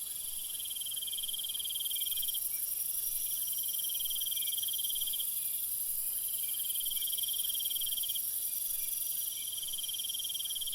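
Insects chirring: a steady, very high-pitched shrill layered with a lower pulsing trill that starts and stops in spells of one to two seconds.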